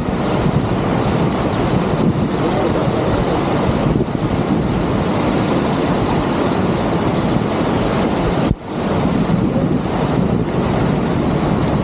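A waterfall's steady rush of falling water, loud and even, dropping out briefly about eight and a half seconds in.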